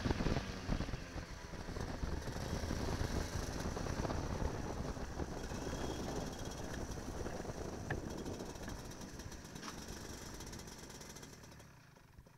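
Kart engine running at low revs with rough, noisy mechanical sound after hard revving, fading out near the end.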